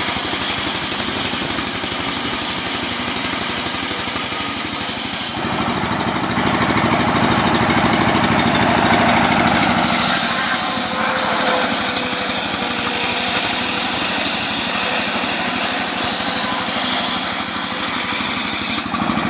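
Small petrol engine of a homemade sawmill running steadily, with a sudden change in tone about five seconds in and again near the end.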